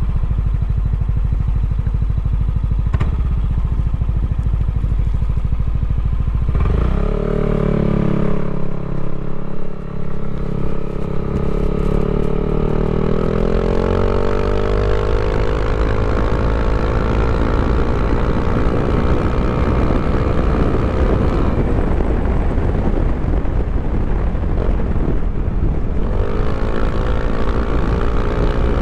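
Yamaha Aerox scooter engine, bored and stroked out to 200cc, running with a steady low pulse at first. About six and a half seconds in it is opened up, and its note climbs slowly and holds high. It drops back about three-quarters of the way through and rises again near the end.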